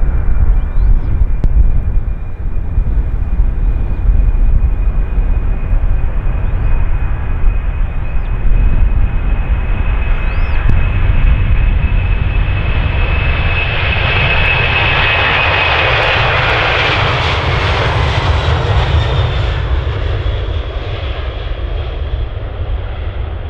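Jet airliner passing by: a steady high engine whine over a deep rumble, with the jet roar building to its loudest about two-thirds of the way through. The whine drops slightly in pitch as the aircraft passes, then the sound fades.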